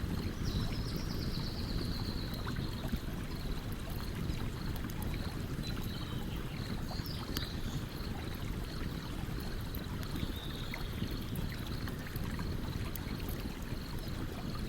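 A stream runs steadily while a campfire gives off scattered small crackles. A faint high chirp repeats about twice a second in the background, and a short falling high call sounds near the start.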